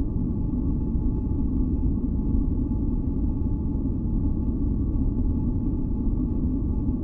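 Steady, unchanging masking noise with most of its weight low in pitch, like a deep hiss. A few faint held tones ring above it.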